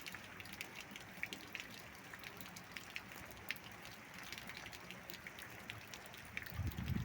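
Rain falling steadily, with individual drops ticking sharply and irregularly through a soft hiss. A low rumble starts to build near the end.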